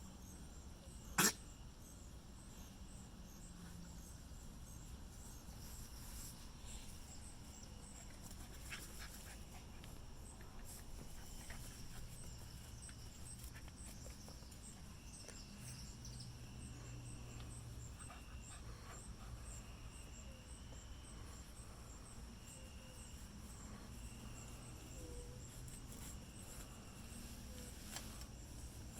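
Quiet sounds of a puppy playing, with crickets chirping faintly and steadily in the background. A single sharp click about a second in.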